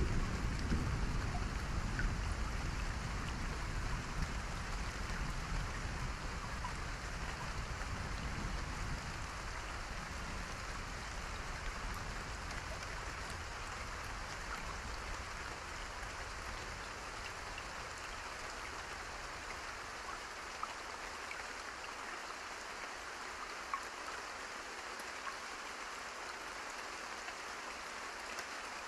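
Steady rain, an even hiss with scattered drop ticks. A low rumble of thunder at the start dies away over the first half.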